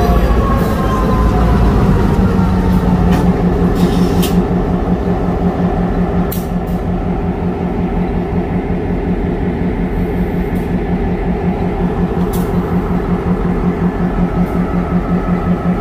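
Freight train rolling past: a steady low rumble that pulses with a regular beat, a tone falling in pitch over the first couple of seconds, and a few sharp clicks.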